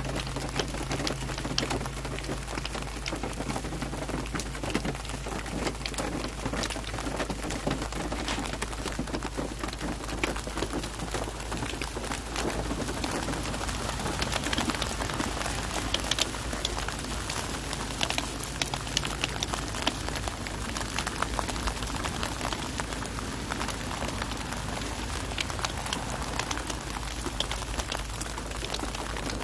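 Hailstones pelting down in a dense, steady clatter of countless small, hard impacts, heaviest about halfway through, over a steady low hum.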